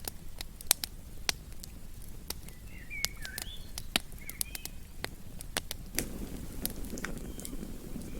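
Wood campfire crackling, with irregular sharp pops and snaps over a low rumble of burning. A bird chirps a few times in the middle.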